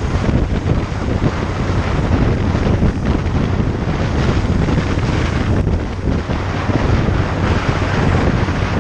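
Wind rushing over the microphone of a moving motorcycle, with the steady hum of the engine underneath.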